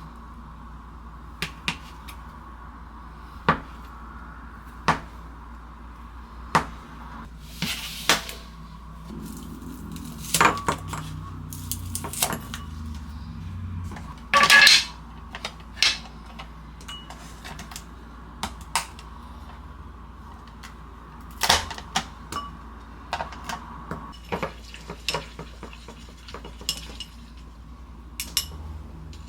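Kitchen clatter of dishes and utensils: irregular knocks and clinks, the loudest about halfway through, over a faint steady hum.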